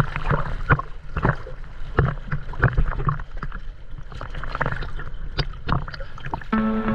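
Small boat on the water: irregular slaps and knocks of water against the hull over a low steady hum. Music comes in near the end.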